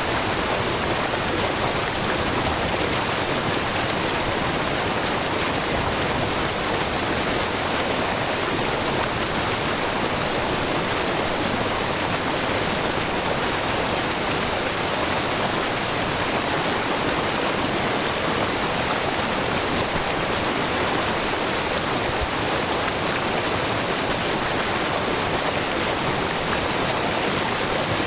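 Shiraito Falls, a low, wide curtain of spring water pouring over a rock face in many thin streams, rushing steadily and evenly with no change.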